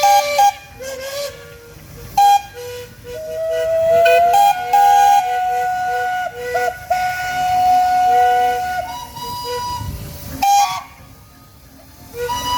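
Steam whistles blowing: several long held tones at different pitches overlap, with short toots and one note sliding slowly up in pitch. The sound eases off near the end.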